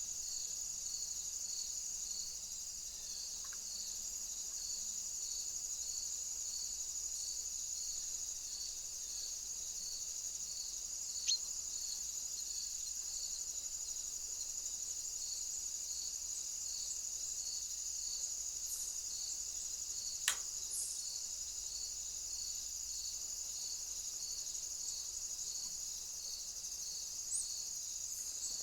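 Crickets or bush-crickets trilling steadily at a high pitch, with a second insect chirping at a regular beat underneath. Two sharp clicks sound, about eleven and twenty seconds in.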